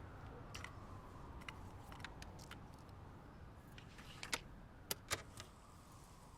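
Faint low rumble with a distant siren slowly rising and falling, and scattered sharp clicks, the loudest a few in quick succession a little past the middle.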